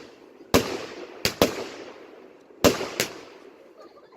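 Fireworks bursting: five sharp bangs in about three seconds, two of them close pairs, each followed by a short fading echo.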